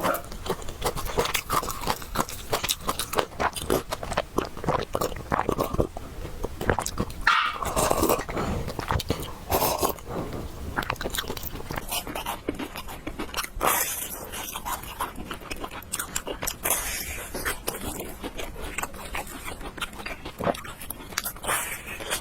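Close-miked mukbang eating sounds: wet chewing and mouth clicks on noodles, with several loud slurps spread through.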